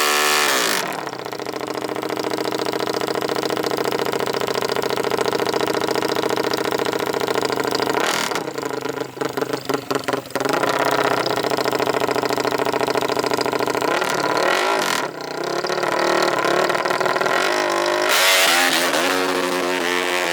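Off-road racing engine running hard at high revs for long steady stretches. About halfway through it blips on and off rapidly for a couple of seconds, and it swells louder again near the end.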